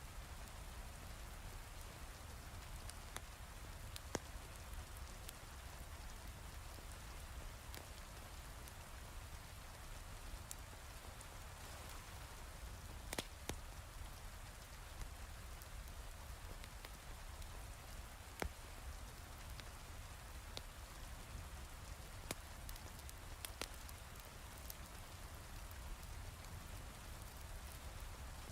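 Steady heavy rain, an even hiss, with a sharp pop from a crackling wood fire every few seconds.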